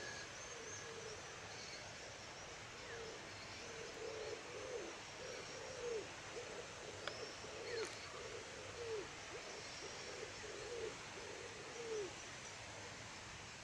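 A bird giving a run of short, low calls, each dropping in pitch at its end, about one or two a second, starting a few seconds in and stopping near the end. Faint high chirps of small birds sound above it.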